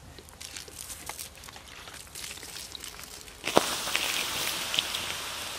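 A campfire crackling faintly, then about three and a half seconds in a sudden steady hiss as water is poured onto the fire to put it out.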